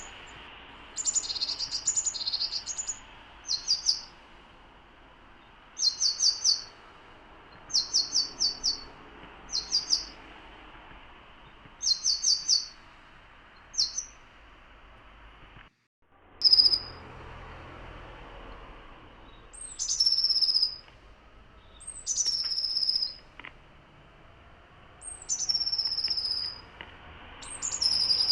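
Small songbirds calling and singing: short bursts of high chirping notes about every two seconds. After a brief dropout partway through, longer high calls each slide down in pitch, over a steady faint hiss.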